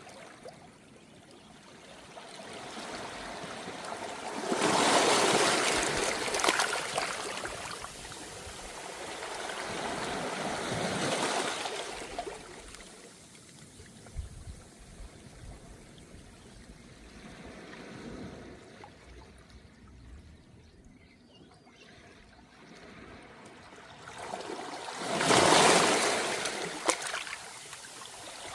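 Calm small waves washing up a beach of round pebbles (mongdol) and draining back through the stones, coming in slow surges. The strongest surges are about five seconds in and near the end, with a smaller one around ten seconds.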